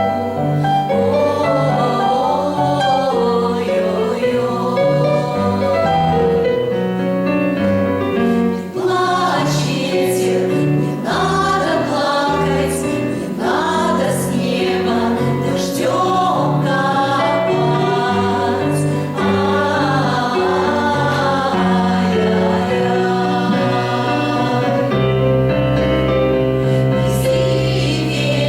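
A choir singing a song with instrumental accompaniment, a bass line stepping under the voices.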